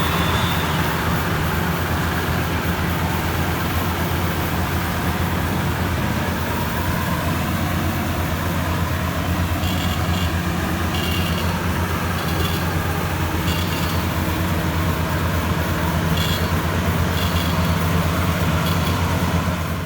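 Rice combine harvester's diesel engine running steadily at a constant speed. There are a few short high-pitched chirps in the second half.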